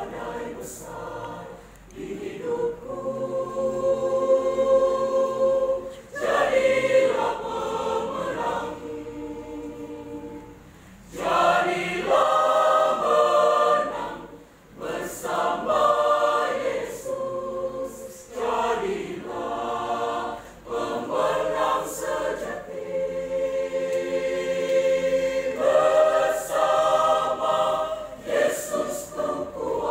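Mixed choir singing a hymn in parts, held chords in phrases with short breaths between them.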